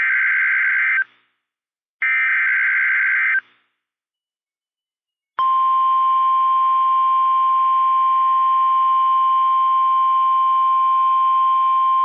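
NOAA Weather Radio alert signalling: the last two of three buzzy SAME digital header bursts, each about a second long. After a short silence comes the steady 1050 Hz warning alarm tone, which starts about five seconds in and holds. Together they announce a severe thunderstorm warning broadcast.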